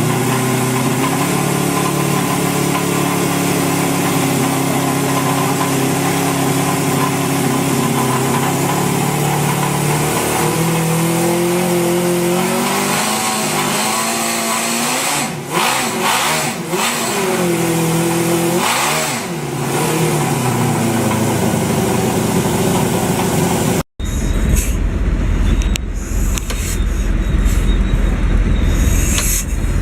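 An engine running at a steady speed, then revved up and down several times about halfway through. Near the end, after an abrupt cut, a different, deep low rumble with scattered knocks takes over.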